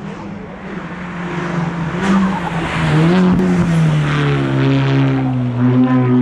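Hill-climb race car engine approaching under power and growing louder, its note rising and dipping around two to three seconds in, then dropping and holding at a steady lower pitch while loud.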